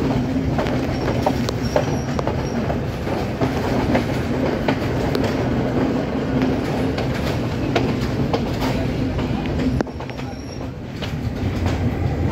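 Passenger train running on the rails, heard from the carriage doorway: a steady rumble and wheel noise with scattered clicks of the wheels over rail joints. The level drops for about a second and a half around ten seconds in, then picks up again.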